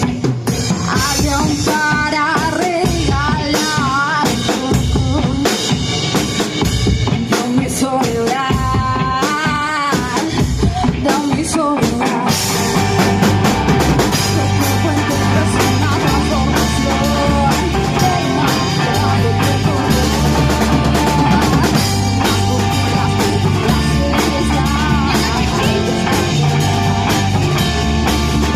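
Rock band playing an instrumental passage: drum kit with rimshots under a wavering, bending lead line for about the first twelve seconds, then the full band comes in with a steady low bass line moving between notes.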